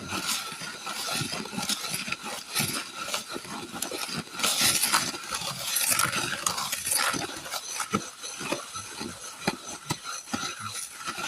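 Wet heat-clay refractory mix being stirred and worked in a container, with irregular scraping and short clicks of the tool against the container.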